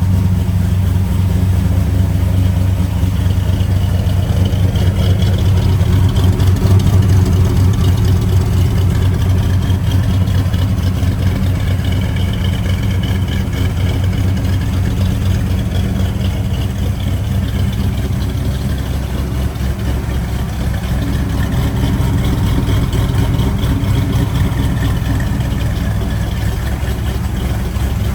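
Fuel-injected 383 stroker small-block V8 of a 1972 Chevrolet Camaro SS idling steadily after a cold start, a little louder around six to eight seconds in.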